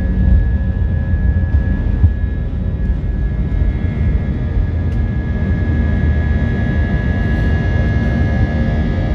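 Cabin noise of an Airbus A320-233 with its IAE V2500 jet engines running: a strong, steady deep rumble with a constant high whine over it, heard from inside the cabin.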